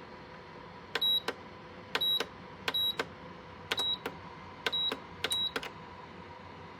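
Lasko ceramic tower heater's control buttons being pressed six times. Each press gives a click and a short high electronic beep, over a steady background hum.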